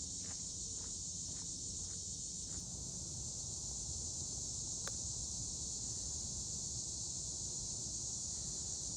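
A steady, high-pitched chorus of summer insects at dusk. Footsteps on a forest trail fall about twice a second during the first two seconds or so.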